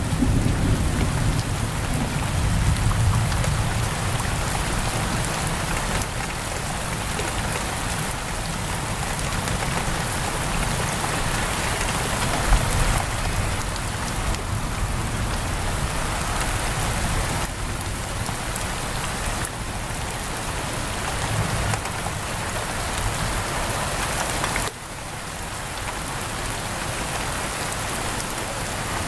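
Steady heavy rain pattering on a window, with a low rumble of thunder fading out over the first few seconds. There is one sharp click about midway, and the rain abruptly drops in level near the end.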